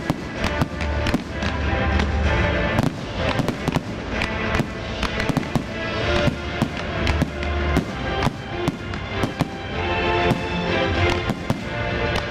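Aerial firework shells bursting in rapid, frequent bangs and crackles, several a second, over music playing with the display.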